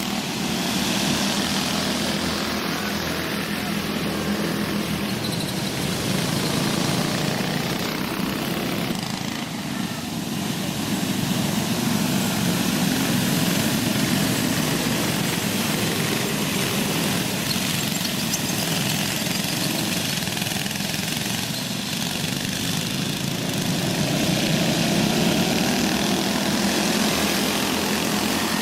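Go-kart engines running in a dirt-track race, their pitch rising and falling as the karts accelerate and lift around the track.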